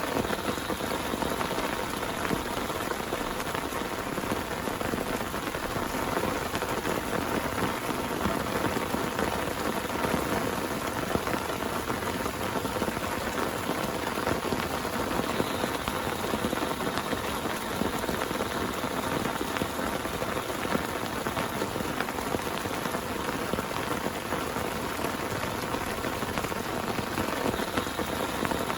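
Heavy rain pouring steadily, a dense even patter of drops hitting a surface.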